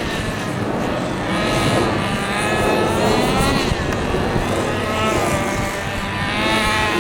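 Nitro RC truck's small two-stroke glow engine revving, its high-pitched buzz rising and falling again and again as the throttle is worked.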